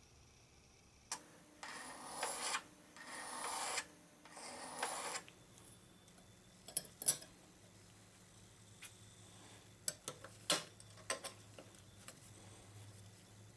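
Three rasping strokes by hand, about a second each, followed by a scatter of light clicks and taps.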